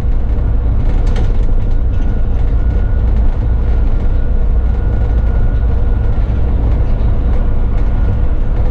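Bus engine and road noise heard from the cab while the bus is under way: a steady low rumble with a thin, steady whine above it.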